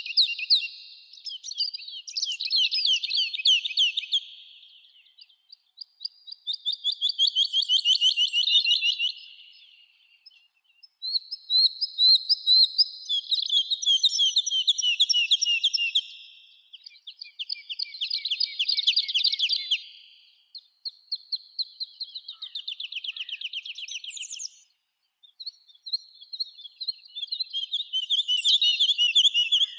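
Songbirds singing in a forest: a run of fast, trilled songs, each a few seconds long, with short pauses between them.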